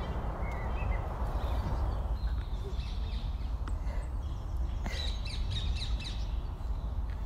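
Woodland birds calling: short high chirps and calls, thickest about five to six seconds in, over a steady low rumble.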